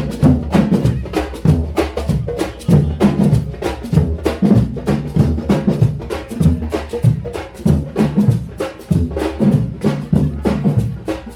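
Drums and percussion playing a fast, steady rhythm of many sharp strikes.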